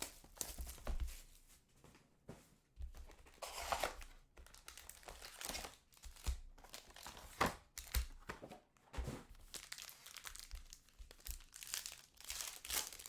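Trading card pack wrappers from a 2020 Panini Mosaic Football hobby box being torn open, with irregular crinkling and ripping.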